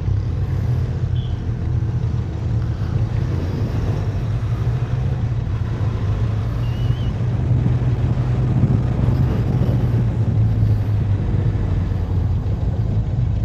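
Benelli TRK 502X motorcycle's parallel-twin engine running steadily, an even low drone with road and wind noise over it, slightly louder about eight seconds in.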